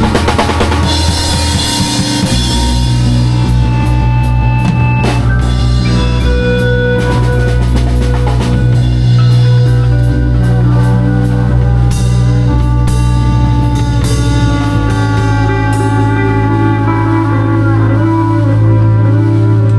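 A live band improvising rock-style music: a drum kit with cymbal strokes over steady, held low bass notes and melodic lines from other instruments. The drum and cymbal hits thin out over the last few seconds.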